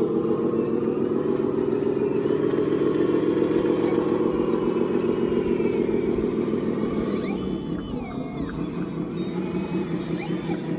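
Radio-controlled construction model's motor running steadily, swelling about three seconds in and easing off after about seven seconds, with a few short pitch glides near the eight-second mark.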